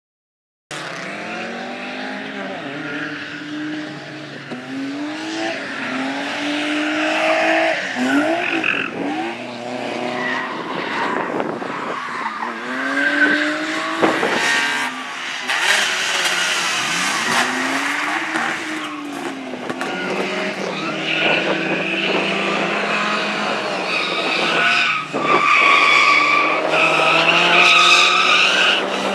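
Rally car engine revving hard, its pitch climbing and dropping again and again as the driver goes through the gears and lifts, over a steady noise of skidding tyres. The sound cuts in about a second in.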